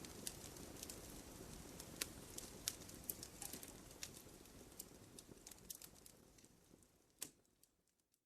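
Firewood burning, with irregular sharp crackles and pops over a low rush of flame. The sound fades out over the last few seconds, with one louder pop just before it dies away.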